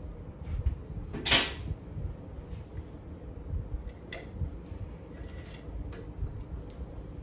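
Workshop handling noise: low knocks and bumps of parts being moved, with one sharp, loud clack about a second in and a few lighter clicks later.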